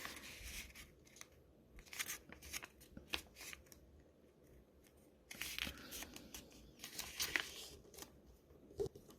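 A square sheet of origami paper rustling and scraping as it is folded in half and the crease is pressed flat, in short scattered rustles with gaps between them.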